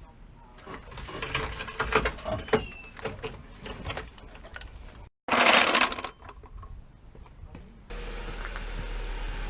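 Irregular mechanical clicking and clattering, then a short loud rushing burst at about the middle. Near the end a car engine starts running steadily at idle, plausibly the 1.6 petrol engine being run after the clutch replacement.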